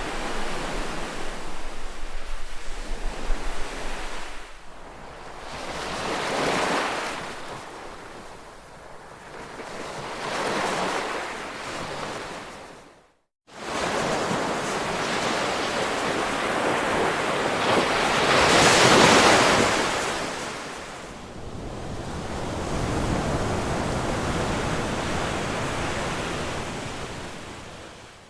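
Ocean surf, waves washing in and receding in slow swells, the largest about two-thirds of the way through. The sound cuts out to silence for a moment about halfway through.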